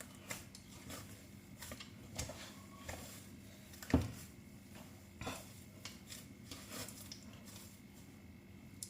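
Quiet room with scattered light clicks and knocks, one louder knock about four seconds in.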